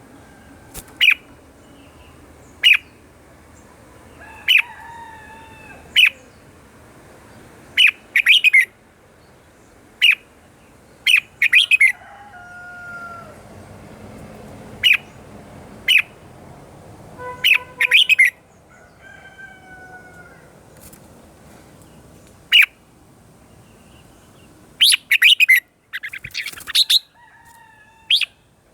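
Red-whiskered bulbuls singing: short whistled phrases and sharp, loud chirps repeating every second or two, with a dense run of chirps near the end.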